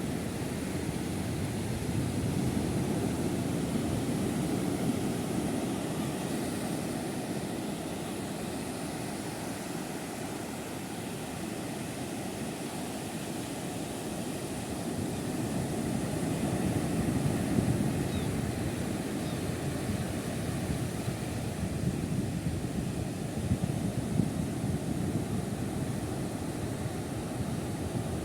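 Low, steady outdoor rumble without distinct tones, swelling and easing slowly every several seconds.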